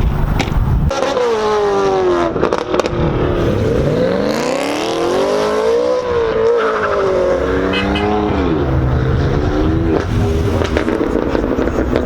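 Car engine revving: its pitch dips, climbs steeply over a few seconds, holds, then drops back to a steadier drone. Wind on the microphone rumbles in the first second.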